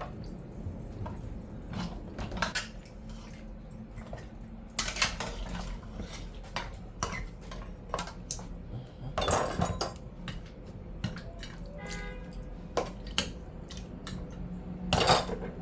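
Pots, dishes and cooking utensils being handled: repeated clinks and knocks of metal and crockery, with longer scraping clatter about five, nine and fifteen seconds in, over a steady low hum.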